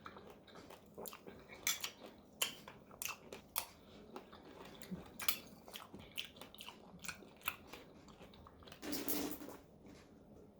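Close-up mouth sounds of chewing a spoonful of fruit and pomegranate seeds in coconut water: irregular wet crunches and clicks as the seeds burst, with a longer, louder noisy sound about nine seconds in.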